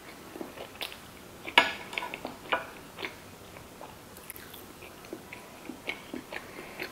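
Close-miked mouth sounds of chewing sushi: soft wet chewing with scattered clicks and smacks, the sharpest about a second and a half in.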